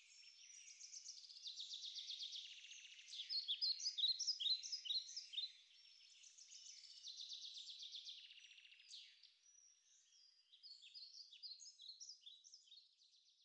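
Small songbirds chirping and twittering: runs of quick, high chirps and short down-slurred notes that come in waves, loudest around four seconds in and thinning out near the end.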